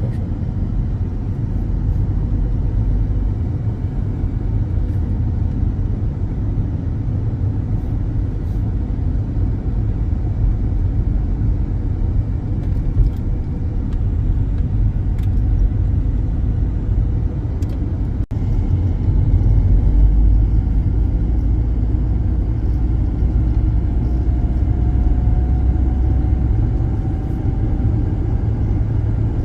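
Car driving on the road: steady low rumble of engine and tyre noise, with a faint slowly rising whine near the end.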